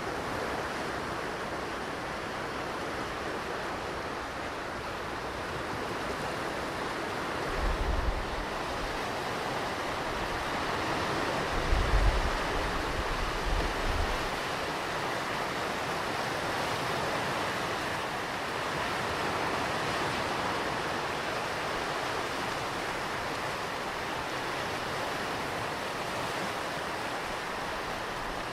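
Ocean surf breaking and washing on a beach: a steady rushing sound that swells and eases slowly. A few short low rumbles of wind on the microphone come about a third of the way in and again a few seconds later.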